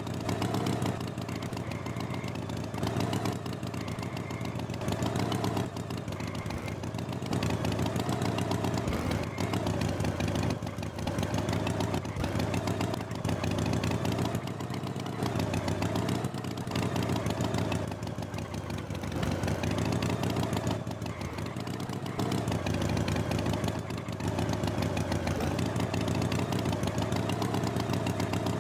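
Tractor engine running steadily, its loudness stepping up and down every second or two.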